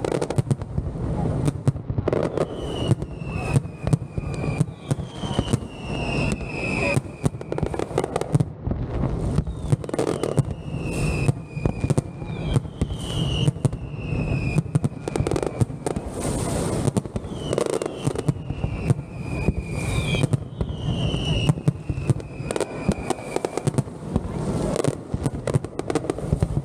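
Aerial fireworks display firing continuously: dense bangs and crackling. High whistles that fall in pitch repeat every two to three seconds.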